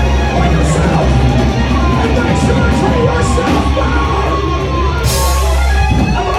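Live heavy rock band playing loud: heavy, steady bass under a held, wavering high note, with a cymbal crash about five seconds in.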